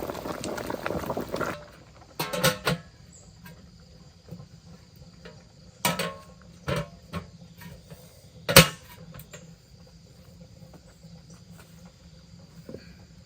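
A pot boiling hard, which cuts off suddenly about a second and a half in. Then come a few sharp knocks and clatters, the loudest a little past halfway, over faint insect chirping.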